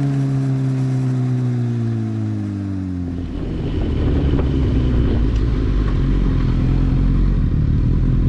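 A superbike's engine note falls steadily as the bike decelerates for about three seconds. Then a louder, rough low rumble takes over for the rest.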